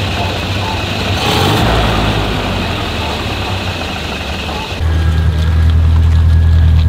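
Engines of old cars running at low revs. About five seconds in, the sound cuts to a louder, steady engine idle hum.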